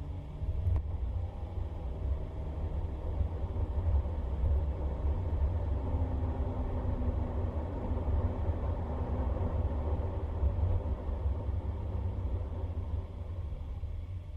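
Motor vehicle on the move: a steady low engine and road rumble, with the engine's pitch sliding up and down as it changes speed.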